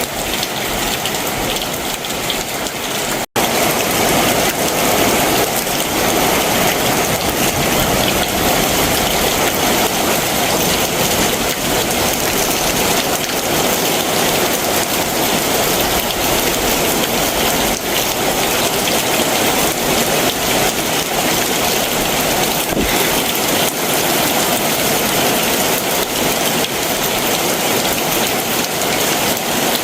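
Heavy summer monsoon downpour falling steadily. It cuts out abruptly for an instant about three seconds in, then comes back slightly louder.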